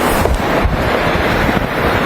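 Strong wind blowing across the microphone: a loud, steady rush with heavy low buffeting.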